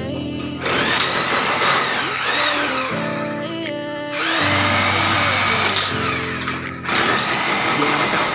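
Electric hammer drill chiselling into a masonry wall to cut a channel for conduit, run in three bursts. Each start has a rising whine that settles to a steady run, with short stops about 4 and 7 seconds in. Background music plays underneath.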